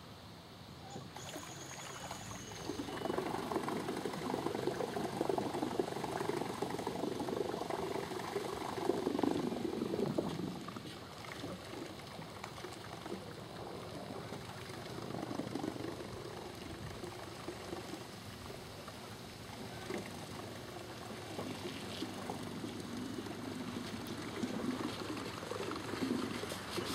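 Water sloshing and trickling at a boat ramp, in uneven swells that are loudest a few seconds in and again near the end.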